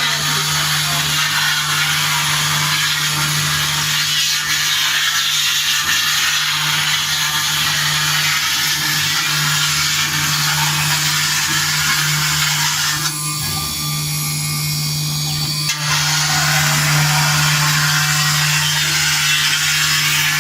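CNC engraving machine running, its bit cutting into silver plate: a steady hum under a loud, even scraping hiss. About two-thirds of the way through the cutting hiss drops away for roughly three seconds, then resumes.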